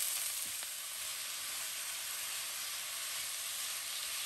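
Shredded potatoes sizzling steadily in hot oil in a frying pan as they are stir-fried, the water left on the rinsed shreds cooking off.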